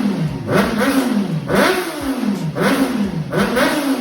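Honda CBR600RR inline-four engine blipped through an aftermarket remote-controlled exhaust with its valve open: four quick revs, each rising and falling back, about one a second.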